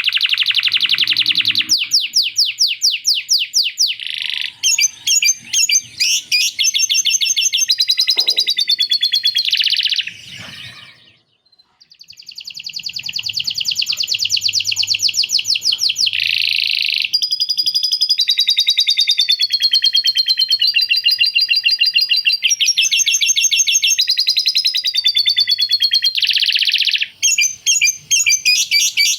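Male canary singing a long, loud song of rapid trills and rolls, its phrases changing every second or two, with a short break about eleven seconds in. The song carries phrases copied from a lovebird's chatter.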